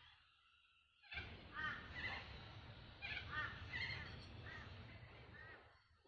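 A bird calling repeatedly, about six short arched calls starting about a second in, over a steady low background rumble.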